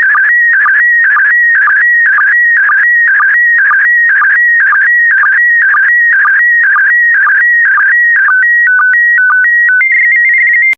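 PD120 slow-scan TV (SSTV) image signal: a loud, warbling electronic tone that carries the picture lines, broken by a short low sync pulse about twice a second. These are the last lines of the image. In the final two seconds the line pattern gives way to a few short tones stepping between two pitches, then a held higher tone just before it cuts off.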